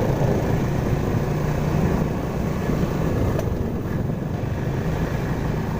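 Motor vehicle engines running steadily in slow traffic: a continuous low rumble.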